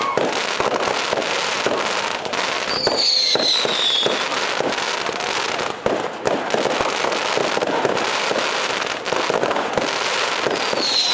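Fireworks display: a dense, continuous run of crackling and bangs from bursting shells. A whistle falling in pitch cuts through about three seconds in, and another starts near the end.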